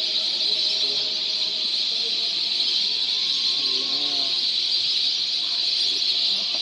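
A large flock of migratory waterbirds calling all at once, a dense, steady chatter of many overlapping high calls with no single bird standing out.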